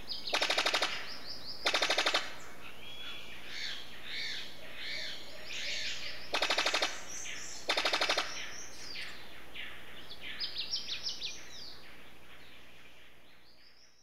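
A bird-of-paradise gives four loud, rapid rattles, each under a second long, in two pairs, over a chorus of other forest birds chirping and whistling. The whole fades out near the end.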